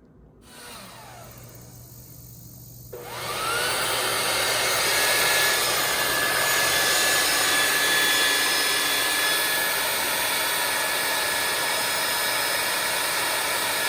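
Steady whooshing whir of an electric appliance motor, quiet at first and much louder from about three seconds in, then holding steady.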